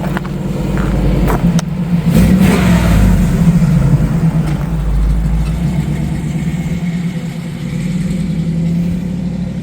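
A vehicle engine running with a steady low hum, growing louder over the first couple of seconds, with a few sharp clicks early on.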